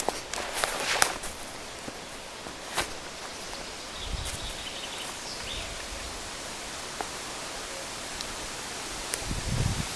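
Outdoor woodland ambience: a steady rustling hiss of air and leaves. In the first second there are a few crunching footsteps, then only scattered faint ticks.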